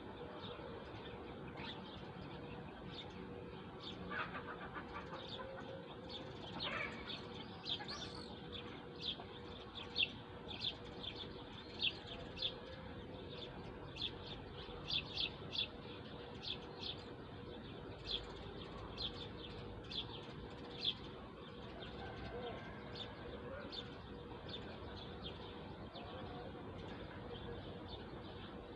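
Small birds chirping: many short, sharp high notes, most frequent in the middle stretch, over a faint steady hum.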